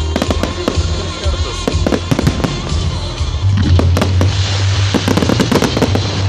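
Fireworks going off in rapid volleys of sharp bangs and crackles, thickest in the second half, over loud music with a heavy steady bass.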